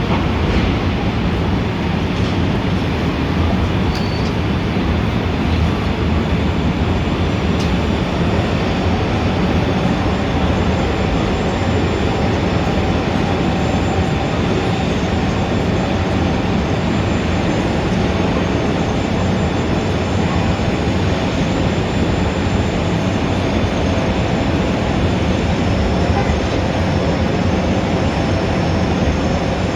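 Steady city street din: a dense, constant rumble of traffic that holds at the same level throughout.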